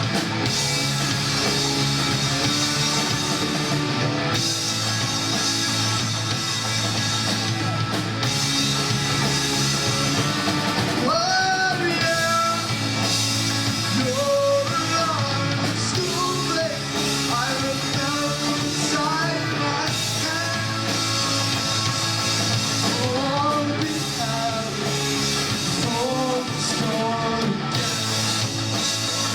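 A rock band playing live with electric guitar, bass and drums, a lead voice singing over it from about eleven seconds in.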